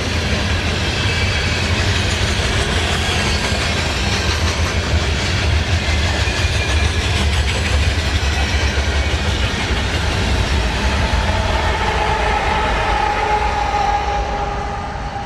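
Train cars rolling past on the rails: a steady rumble and clatter of wheels. Near the end a faint steady ringing tone comes in, and then the sound begins to fade as the train moves off.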